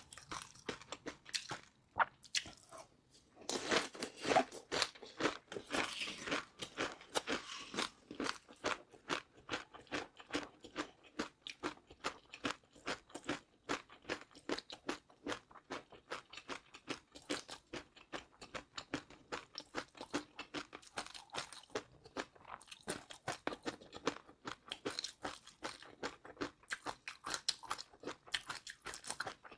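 Close-miked chewing of crunchy food: a steady run of quick crunches, loudest a few seconds in.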